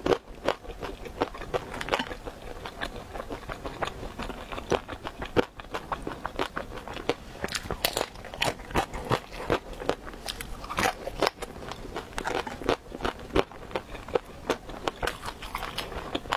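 Close-miked biting and chewing of crisp fried dumplings: a dense, irregular run of sharp crunchy clicks from the mouth.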